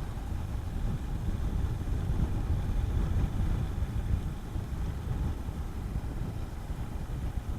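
Honda CB400SS single-cylinder engine running steadily while riding, with wind rumbling on the microphone.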